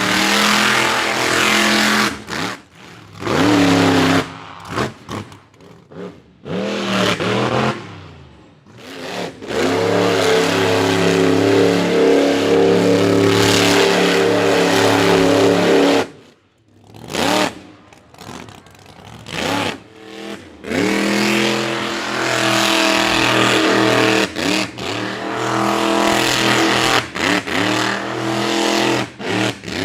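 Monster truck engine revving hard in repeated throttle bursts, cutting off sharply between them, with long full-throttle stretches.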